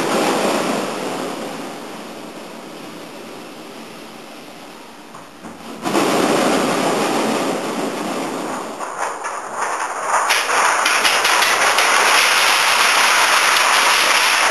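Heavy rain of a storm: a steady hiss that fades over the first few seconds, then returns suddenly about six seconds in and grows louder, with crackling patter near the end.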